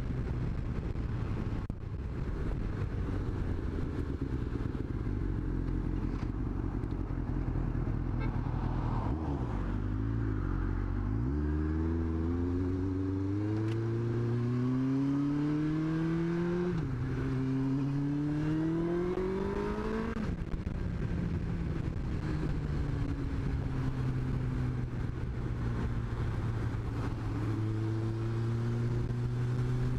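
Yamaha FZ1's inline-four engine running steadily, then pulling away: the revs rise, drop at a gear change, rise again, and then settle to a steady cruise.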